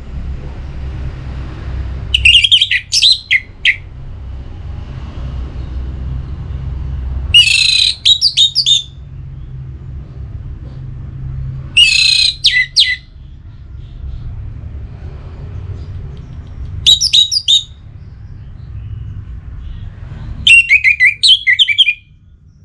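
Orange-headed thrush (anis merah) singing loud, quick, warbling phrases, five short bursts a few seconds apart, with a steady low hum underneath.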